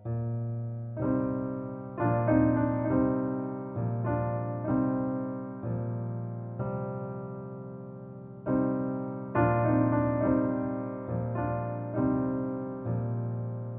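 Solo piano piece in C minor at a slow, even pace, with notes and chords struck about once a second and each ringing out and fading before the next.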